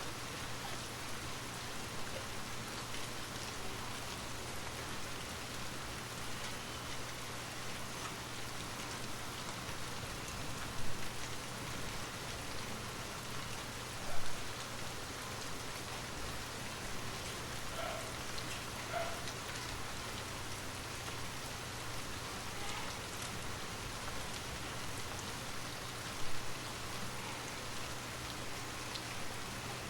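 Steady rain falling, with three brief louder drips or taps that stand out against the even patter.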